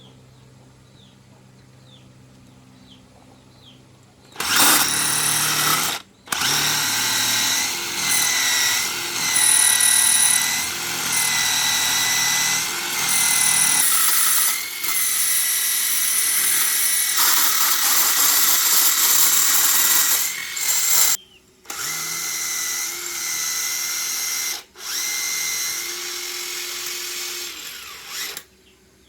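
Electric power tool running at high speed in long stretches, its whine sagging and recovering under load. It starts a few seconds in, stops briefly three times, and cuts off shortly before the end.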